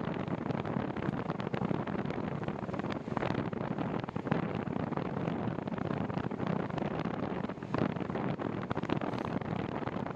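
Wind buffeting the microphone of a cyclist riding on a windy night: a steady rushing rumble with small gusts.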